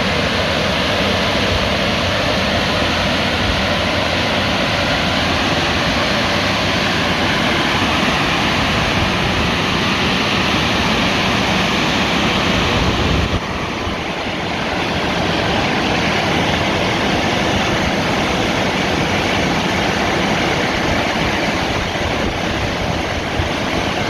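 A Ceccato tunnel car wash running: a loud, steady rushing of water spray and machinery. About 13 seconds in, the rushing shifts abruptly and drops a little, losing some of its hiss, then carries on steadily.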